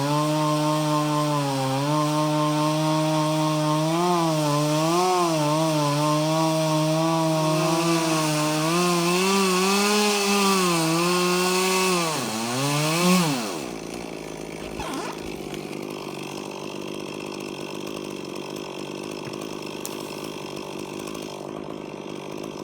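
Chainsaw running at high revs and cutting wood, its pitch wavering as the cut loads and frees the engine. About 13 seconds in the throttle is released and the pitch falls away. A quieter, steady engine noise follows.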